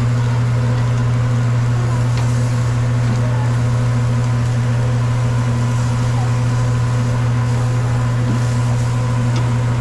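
A steady, loud, low machine hum, as of a motor running, with a few faint clicks.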